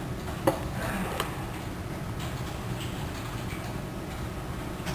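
Packaging being handled: a sharp click about half a second in and a lighter tick a moment later, then a few faint taps over a steady low hum.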